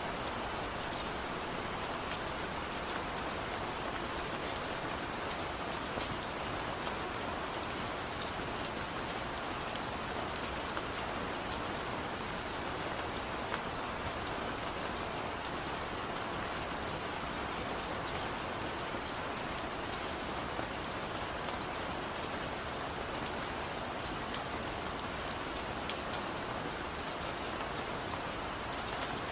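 Steady, heavy rain falling on a surface, a dense even hiss with many small drop impacts ticking through it.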